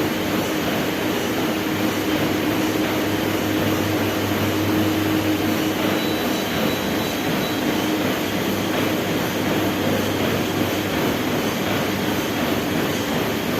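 Treadmill running: a steady motor hum with belt noise.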